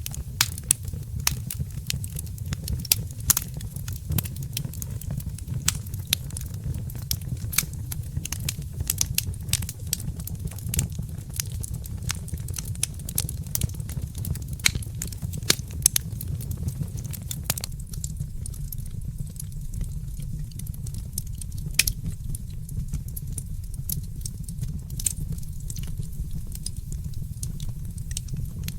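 Wood fire crackling in a fireplace: irregular sharp pops and snaps over a steady low rumble. The pops thin out a little past the halfway point.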